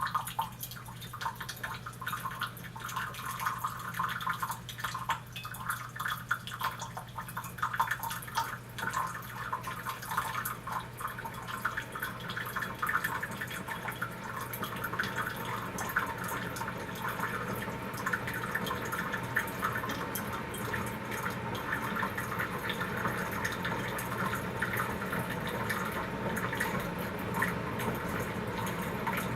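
Keurig K-2550 commercial coffee maker brewing on its strong, 10-ounce setting: hot water streams and drips into the mug over a steady low hum from the machine. The flow sounds spattery at first and settles into a steadier stream after about twelve seconds, slower and quieter as the strong setting is meant to be.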